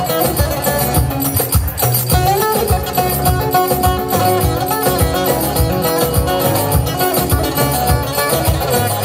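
Amplified live band playing instrumental Turkish folk music: a melody over a steady, regular beat.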